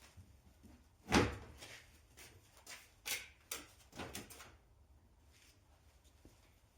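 A loud clunk about a second in, followed by several lighter knocks and clatters.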